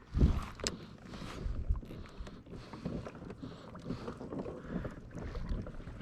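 Water lapping and sloshing against a kayak hull, with a loud bump right at the start and irregular small knocks and bumps after it.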